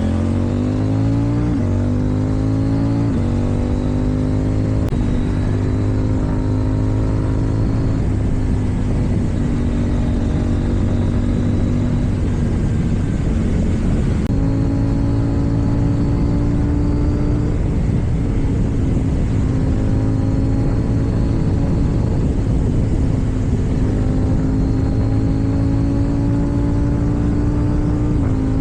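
KTM Duke 790 parallel-twin engine with an Akrapovič exhaust, under a rider's throttle. It revs up and shifts up twice in the first few seconds, then cruises at a fairly steady engine note with small throttle changes, one step up about halfway and another shift near the end.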